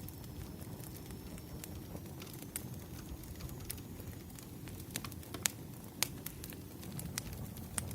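Wood fire crackling: irregular sharp pops and snaps over a steady low rumble, with two louder pops a little past five and at six seconds in.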